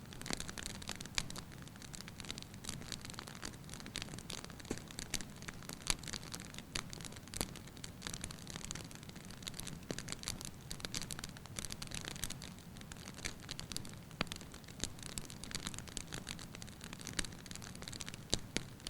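Wood fire burning in a fireplace: logs crackling with frequent irregular sharp pops over a soft steady rush of flame.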